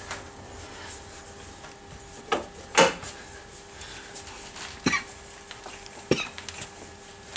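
Metal hand tools knocking and clanking against each other and the car while a front wheel is being taken off. There are four separate sharp knocks, the loudest a little under three seconds in.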